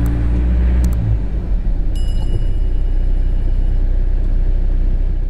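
Construction machine's diesel engine running with a steady low rumble. The engine's hum drops away about a second in, and a faint high tone sounds briefly about two seconds in.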